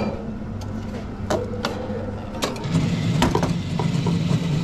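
Espresso machine at work: a few sharp knocks and clicks of the coffee gear, then about two and a half seconds in the machine's pump starts a steady low hum.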